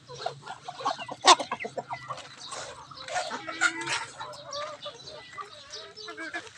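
Native chickens clucking as they feed, with short calls and many small taps, and one sharp knock about a second in.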